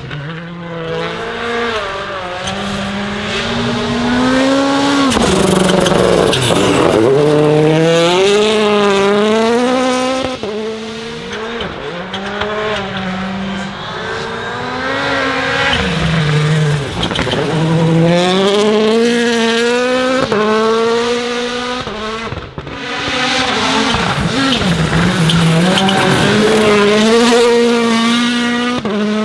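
Hyundai i20 Coupe WRC rally car at speed on a gravel stage, its turbocharged four-cylinder engine revving up through the gears and dropping back sharply at each shift and lift, over and over. Loudest as the car comes closest, with tyre and gravel noise underneath.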